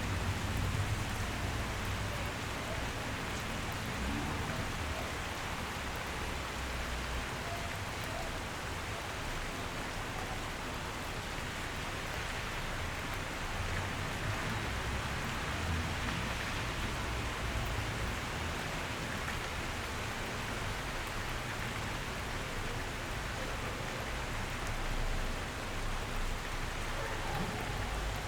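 Steady rain falling, with a low rumble underneath that swells and fades.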